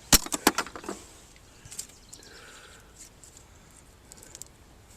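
Small metal parts being handled and set down: a quick run of sharp clicks and clinks in the first second, then faint scattered ticks.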